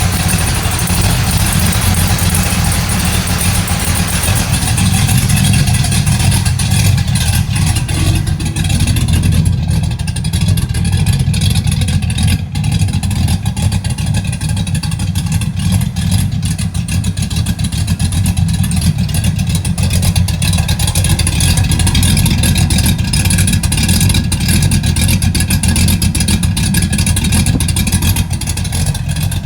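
Engine of an OBS Ford pickup truck running steadily, with a strong low rumble, just after being reinstalled.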